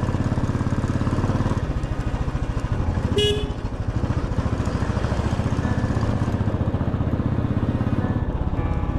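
Motorcycle engine running steadily while riding, with a short horn toot about three seconds in.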